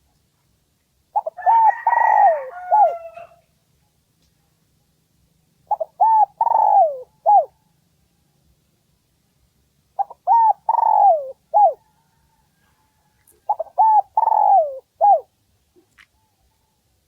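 Spotted dove cooing: four phrases about four seconds apart, each a few short coos around a longer middle note. A higher-pitched call overlaps the first phrase.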